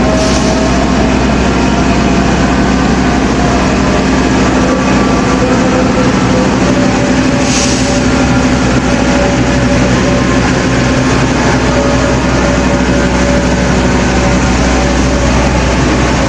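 Locomotive-hauled passenger train's coaches rolling past a platform as the train pulls out, a steady rumble of wheels on rail with a faint steady hum over it.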